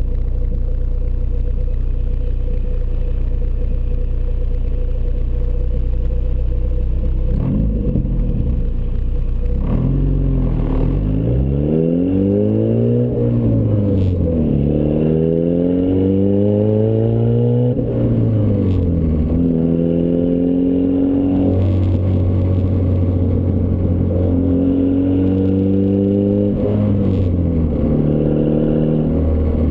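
Turbocharged Ford Escort ZX2's four-cylinder engine, heard through a custom 3-inch side-exit exhaust. It drones steadily at first, then from about eight seconds in revs up and drops back repeatedly, the pitch climbing and falling several times as the car accelerates and shifts.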